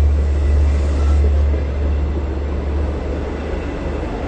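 EMD DE30AC diesel-electric locomotive pulling a passenger train into the station, a deep steady engine drone that gradually fades as it moves past.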